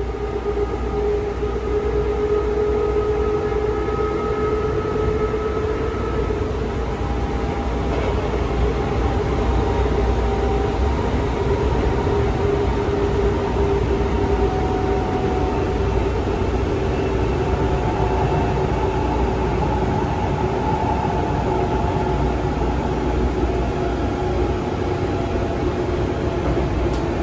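Sotetsu 9000 series electric train heard from inside a passenger car while running: a steady rumble of wheels on rail with a motor whine held at a near-steady pitch.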